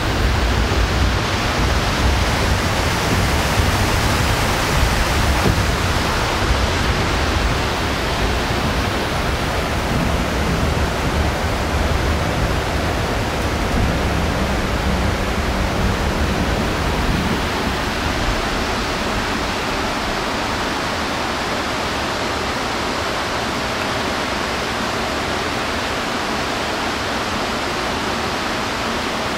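Steady rushing noise of a metre-gauge train running over a river bridge, with whitewater rapids below. A heavier low rumble dies away a little over halfway through.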